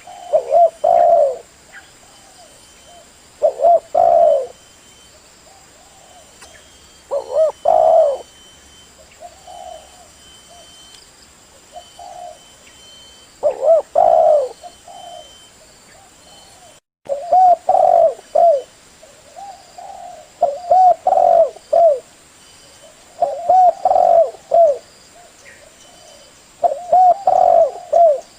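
Spotted dove (tekukur) song: phrases of several low, rolling coos repeated every three to four seconds. It is the male's call, used as a lure call to draw other doves.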